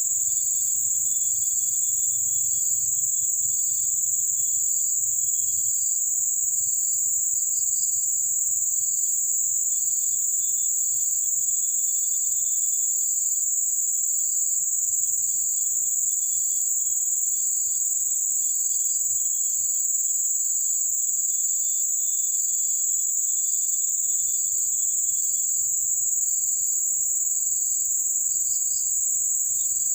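Insects calling in chorus: a loud, steady, high-pitched drone, with another insect's short chirps repeating about once a second and a faint thin whine beneath them.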